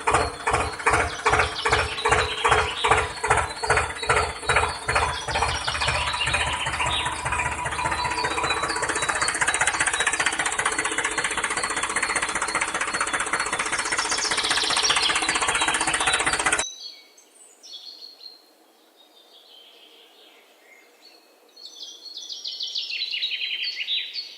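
An engine chugging in rhythmic thumps, about two a second, that merge into a steady run. It cuts off abruptly about two-thirds of the way through. Faint high chirps follow.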